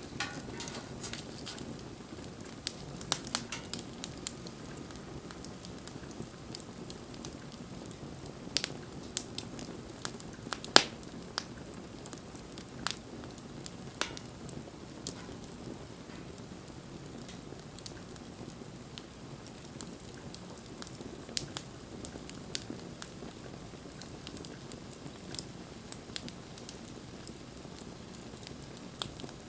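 Wood fire burning: a steady low rush of flame with irregular crackles and sharp pops from the wood, one pop standing out about a third of the way in.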